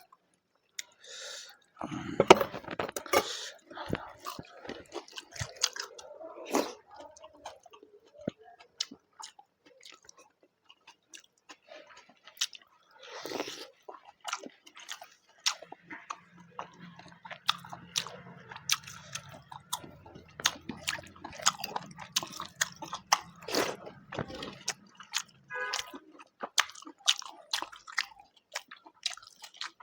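A person chewing and biting food close to the microphone, with many sharp wet mouth clicks. A low steady hum sits under the chewing for several seconds in the middle.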